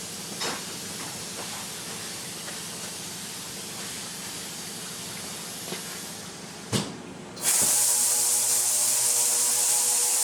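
Ultrasonic parts-washer tank running with a steady low hum and hiss. About seven seconds in there is a knock and a brief lull, then the ultrasonic cleaning starts with a much louder hiss of agitated water over a steady buzzing tone.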